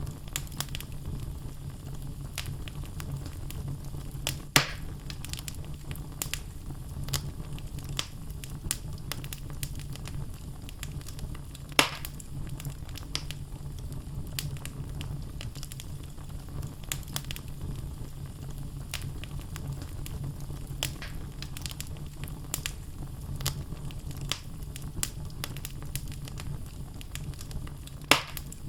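Wood logs burning in a fireplace: a steady low rush of flame with frequent small crackles, and three louder pops, about five seconds in, about twelve seconds in and near the end.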